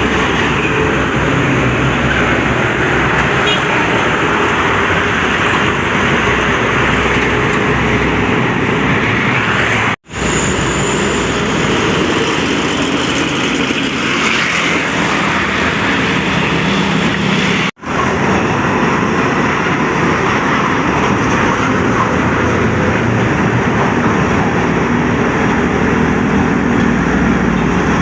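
Road traffic noise beside a busy highway: the engines and tyres of passing trucks and other vehicles, steady throughout, broken by two abrupt cut-outs about ten and eighteen seconds in.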